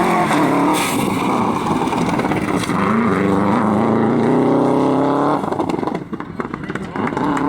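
Competition vehicle's engine on a dirt slalom course, pulling hard with the revs climbing, then lifting off sharply a little over five seconds in, followed by a ragged, crackly stretch before the engine picks up again near the end.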